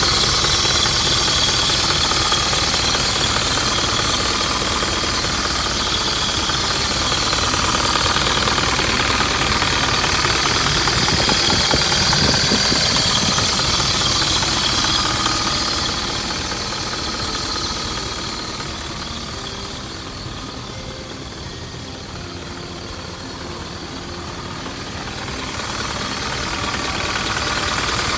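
Isuzu Elf truck's engine running steadily. It grows quieter for several seconds past the middle, then louder again.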